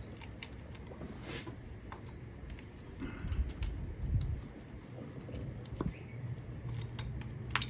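Scattered light clicks and taps of hand work on the engine's ignition coils and their plastic electrical connectors, with a few duller low knocks about three to four seconds in.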